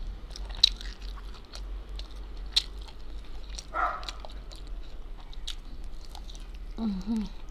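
Close-up chewing and biting of fried chicken, with scattered sharp mouth clicks and short crunches.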